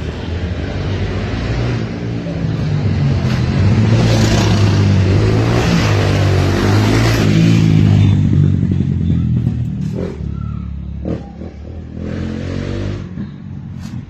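A motor vehicle's engine running loudly with a low drone that swells and then fades away after about eight seconds, followed by a few short clicks or knocks.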